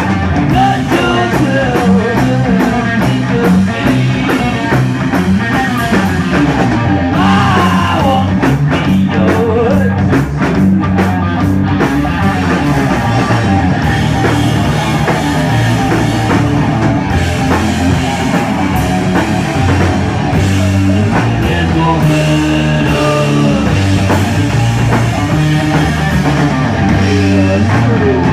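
Live stoner rock band playing loudly and without a break: electric guitar riffs over bass and a drum kit.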